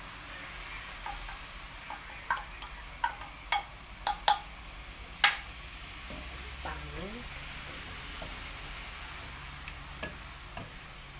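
Canned tuna frying in oil with garlic and onion in a metal pot, sizzling steadily as a wooden spatula stirs it. Several sharp knocks against the pot come between about two and five seconds in.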